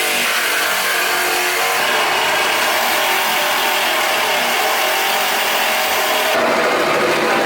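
Battery-powered cutting tool running steadily as it cuts through the classic Mini's steel body panels, a loud continuous grinding noise. The sound changes abruptly about six seconds in.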